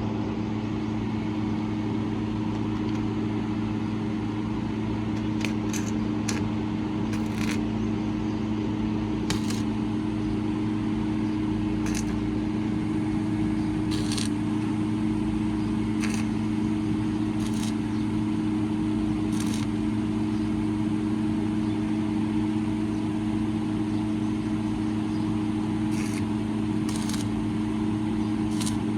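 Toyota Corolla XLi's engine idling steadily, with a dozen or so light sharp clicks scattered through it.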